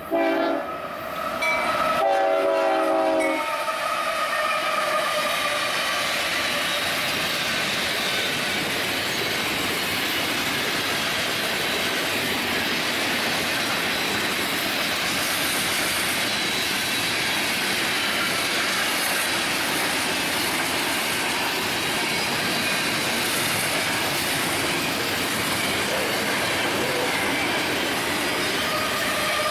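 Union Pacific train horn sounding two short blasts, the second a little longer. Then the train rolls steadily past, with the clatter of wheels on the rails.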